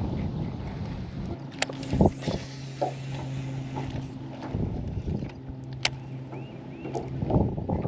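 Electric trolling motor on a jon boat humming steadily, starting about a second and a half in and stopping near the end, over wind buffeting the microphone. A few sharp clicks and knocks come in between.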